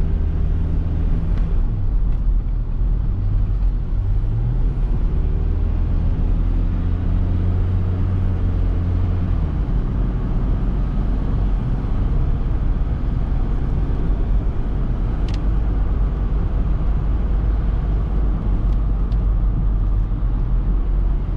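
Mitsubishi Delica L400's 2.8-litre turbo diesel engine and road noise heard while driving, a steady low drone whose engine note shifts up and down a little. A brief click sounds about fifteen seconds in.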